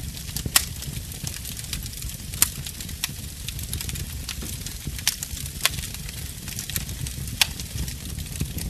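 Wood fire crackling in a fireplace: scattered sharp pops and snaps, about six in all, over a steady low rumble and a faint hiss of burning.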